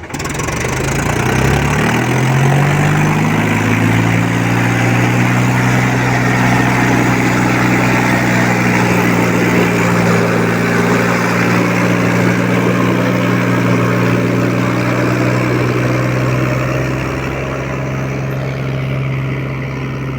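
Mahindra 265 DI tractor's three-cylinder diesel engine revving up over the first two seconds or so, then held at a steady high speed, easing off a little near the end.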